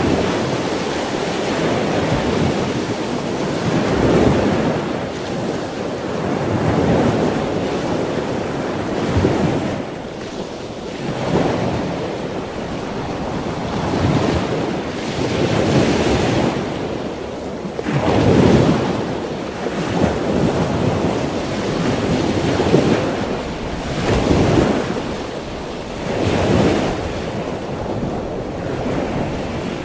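Sea waves washing in and drawing back, swelling in surges every two seconds or so.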